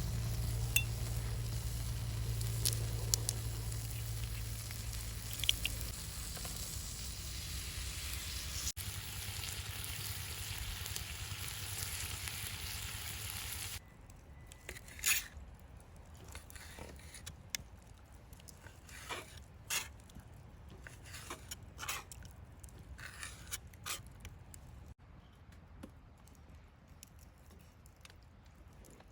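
Food sizzling in a pan, a steady hiss that stops abruptly about fourteen seconds in; after that, scattered faint crackles and pops.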